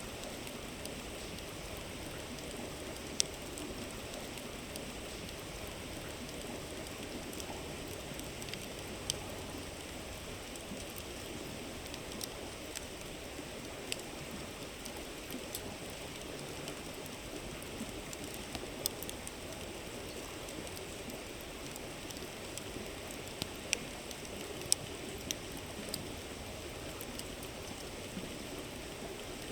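Steady rush of a flowing river, with the irregular crackle and sharp pops of a wood campfire burning beside it.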